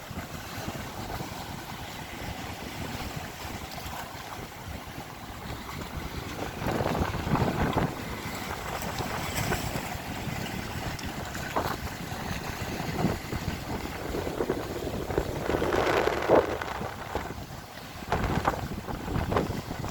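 Wind buffeting the microphone over the wash of the sea, swelling and easing irregularly.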